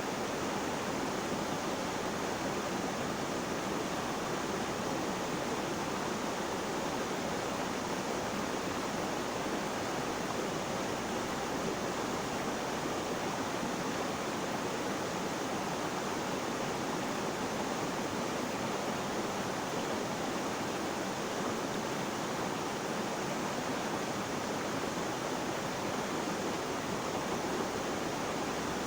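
Flowing water rushing steadily, an even, unbroken hiss with no separate splashes.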